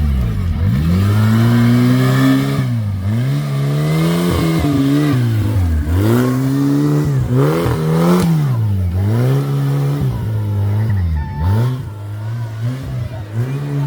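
Tractor engine revving up and down over and over, its pitch climbing and dropping back roughly every two to three seconds.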